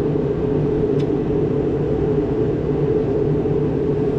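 Gehl asphalt paver's engine running steadily at idle, a constant low hum.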